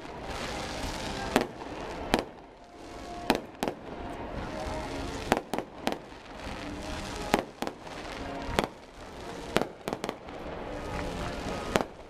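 Aerial fireworks bursting in an uneven series of sharp bangs, roughly one or two a second.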